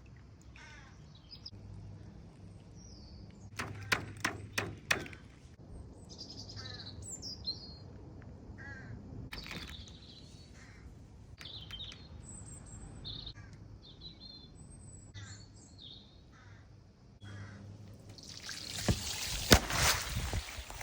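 Birds calling outdoors, with crows cawing among chirps and tweets. A few sharp clicks come about four seconds in, and a loud rushing noise with knocks rises near the end.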